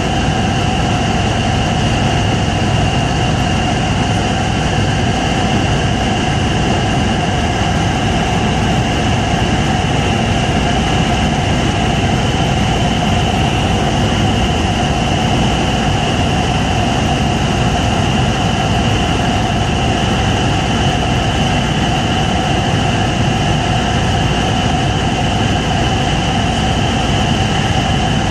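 Helicopter in steady flight: a constant drone of engine and rotor with a steady high whine over it, unchanging throughout.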